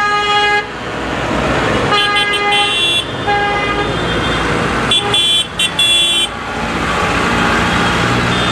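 Tractor horns honking in a series of toots, with a quick run of short toots about five seconds in, over the steady rumble of tractor engines, which carries on alone near the end.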